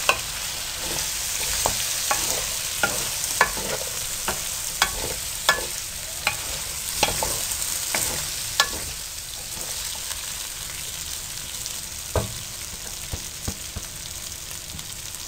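Julienned potatoes sizzling in hot oil in a metal pan while being stirred, the stirring making sharp knocks and scrapes against the pan. The strokes come about once or twice a second at first and thin out after about nine seconds, leaving mostly the sizzle.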